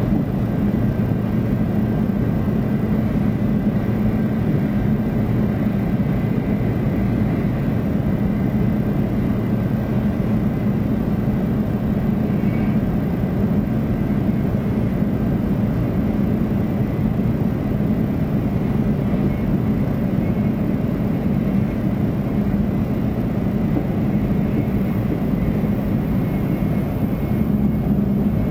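Running noise heard inside the cabin of a 500 series Shinkansen train: a steady, unchanging rumble with a faint high whine over it.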